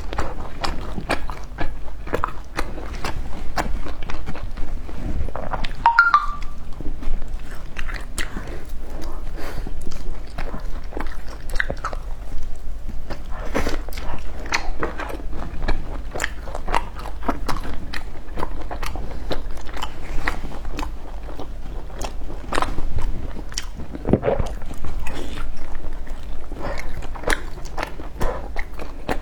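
Close-up biting and chewing of crispy deep-fried skewered food, a dense run of irregular crunches.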